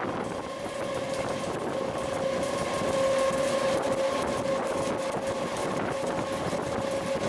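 Electric MEMU commuter train in motion, a steady running rumble with a steady whine held at one pitch that cuts off near the end.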